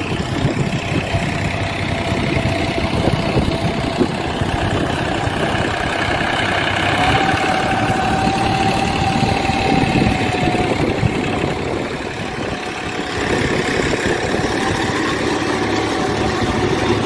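Massey Ferguson 9500 tractor's engine running steadily, with a steady whine above it that rises slightly about seven seconds in and a brief drop in loudness about twelve seconds in.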